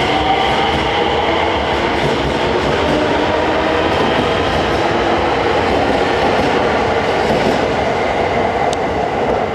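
Electric commuter train departing along the platform, its cars rolling past with a steady rumble and wheel clatter on the rails. The sound eases slightly near the end as the last car clears.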